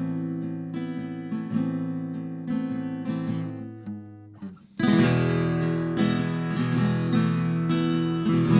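Music: an acoustic guitar strumming chords. It fades away about four seconds in, then comes back louder and fuller about a second later.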